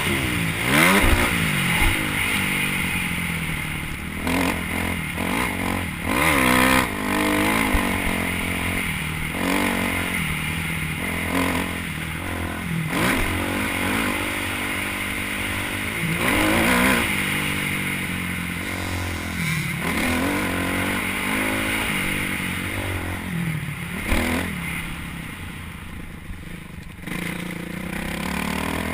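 Motocross bike engine being ridden hard, revving up and dropping back again and again as the throttle is opened and closed around the track.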